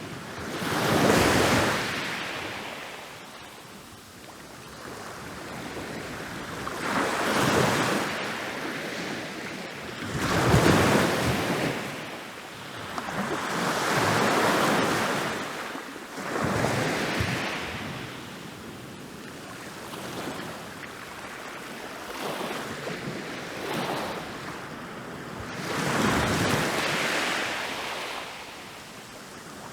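Ocean waves rolling in and breaking on a beach, the surf swelling up and washing back in a new surge every few seconds.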